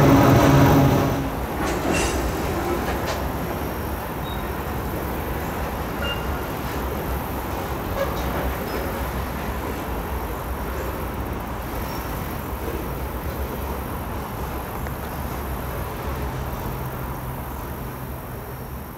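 Freight train's covered hopper cars rolling across a steel trestle: a steady rumble with scattered wheel clicks and a few brief, faint squeaks. A louder humming sound drops away about a second in.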